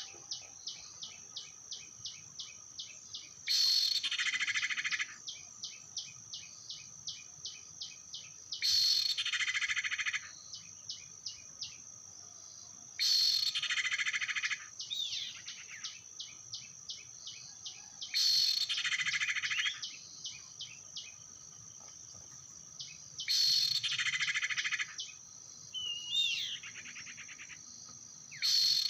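A bird-lure call for trapping common iora, repeating every five seconds or so: a loud buzzy burst about a second and a half long, then a run of short ticking notes at about four a second. A steady high insect whine runs underneath, and a couple of other whistled bird notes come in near the middle and near the end.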